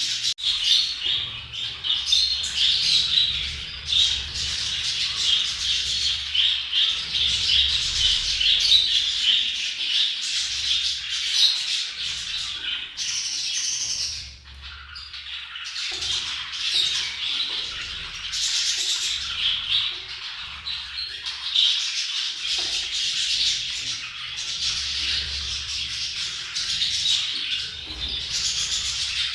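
A group of budgerigars chattering and warbling, a dense unbroken stream of chirps and squawks, with a short lull about halfway through. These are budgie courtship and mating calls.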